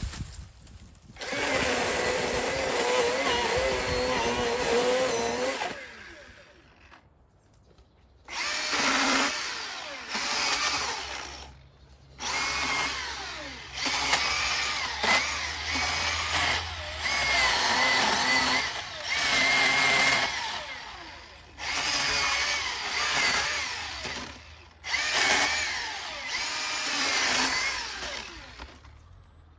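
Cordless battery chainsaw's electric motor running in repeated bursts of a few seconds, stopping and starting again with short breaks, its pitch wavering as the chain cuts wood.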